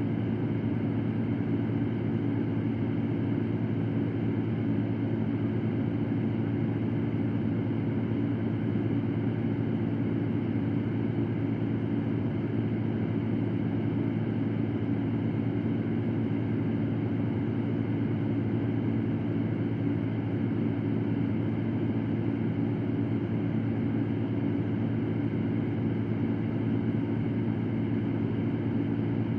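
Electric fan running steadily: an even rush of air with a low, constant motor hum underneath.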